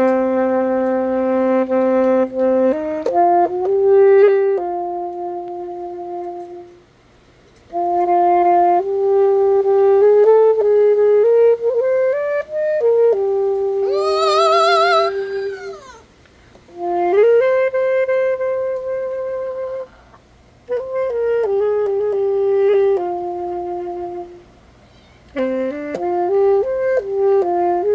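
Alto saxophone playing a slow melody of long held notes in phrases, with short breaths between them. About halfway through, a brief wavering high sound with heavy vibrato cuts in.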